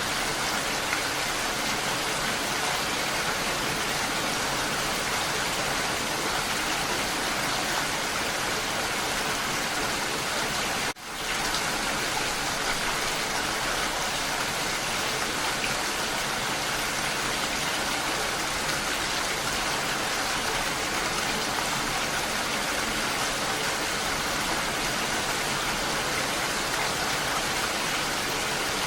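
Steady rain falling. The sound dips sharply and briefly about eleven seconds in, then returns at once.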